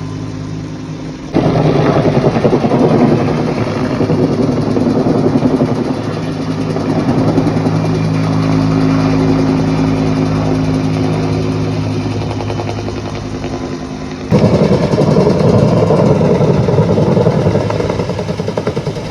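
An engine runs steadily with a low drone. A louder rough rumble cuts in abruptly about a second in, eases off, and jumps back up suddenly near the end.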